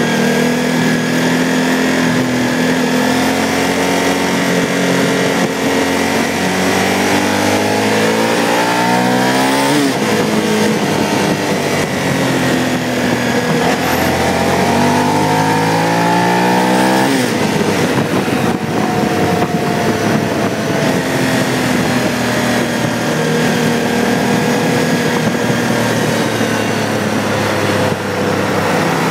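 Car engine heard from inside the cabin, running under load and accelerating through the gears: the revs climb steeply and drop sharply at an upshift, twice, about seven seconds apart, then settle into steadier running.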